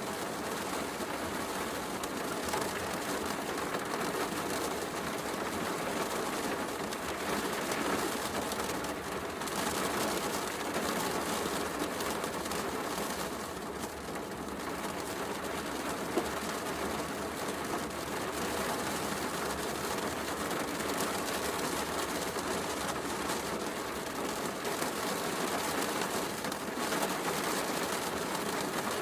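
Steady heavy rain mixed with a crackling wood fire, with one sharper pop about halfway through.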